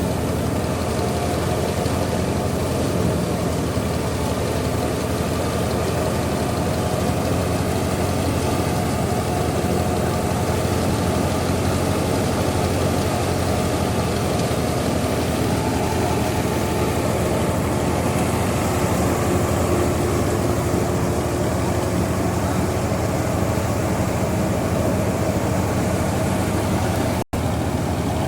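Tractor-driven wheat thresher running steadily: the engine and threshing machinery make one continuous noise, broken once by a momentary dropout near the end.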